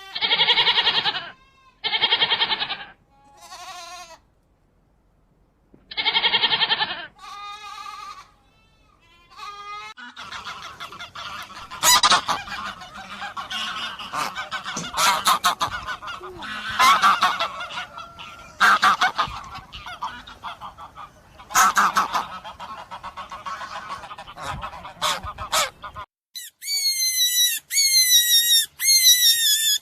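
Farm animal calls: three loud, separate calls in the first seven seconds, then a dense stretch of many overlapping calls from about ten seconds in. Near the end a different run of high, quickly repeated calls begins.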